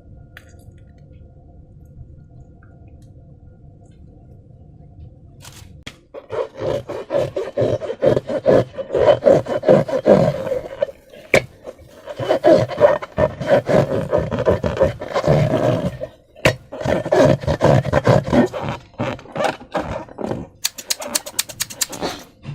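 Hands squeezing and rubbing slime-filled rubber balloons: a dense, irregular run of rubbery squeaks and squelches that starts about six seconds in, after a faint steady hum, with a few brief pauses and some sharp clicks near the end.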